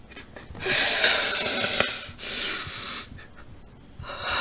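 A man breathing heavily and raggedly in distress: two long, loud breaths, then a shorter one near the end.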